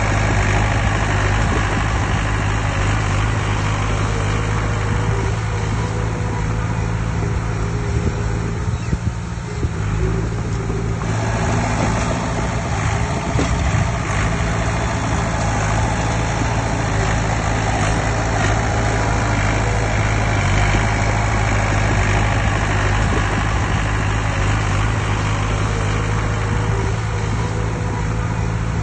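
Heavy diesel engine of earthmoving machinery running steadily, with a brief dip in the mid-range sound about nine seconds in.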